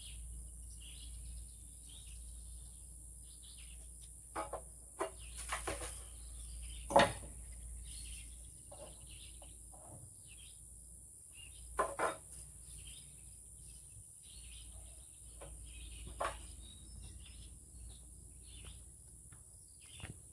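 Small birds chirping on and off, over a steady high hiss, with a few sharp knocks and taps from work on the wood frame, the loudest about seven seconds in and a double knock near twelve seconds.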